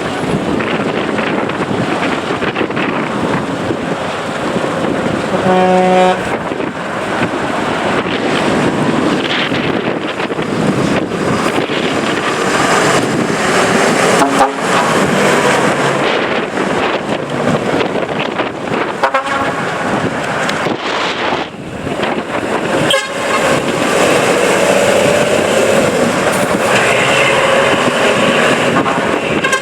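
Decorated trucks running as they pull out, with wind buffeting the microphone; a truck horn toots briefly about six seconds in.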